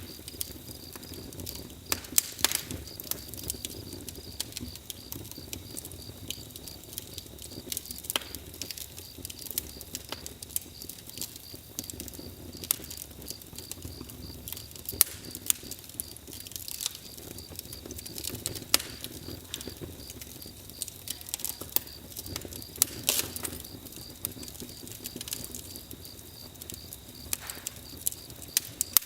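Campfire crackling, with irregular sharp pops over a steady high chirring of crickets.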